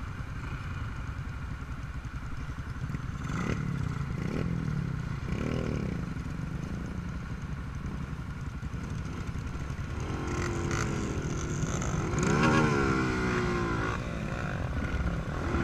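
Trail motorcycle engine idling steadily, revved up and down briefly a few times, loudest about two-thirds of the way through.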